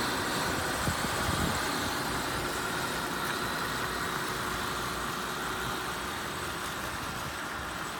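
Mercedes-Benz CL600's 5.5-litre twin-turbo V12 idling steadily.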